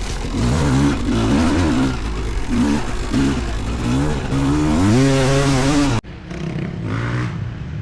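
Vintage two-stroke motocross bike engine revving up and down under throttle while riding in sand, its pitch rising and falling again and again. About six seconds in it cuts off abruptly and a quieter, lower engine drone follows.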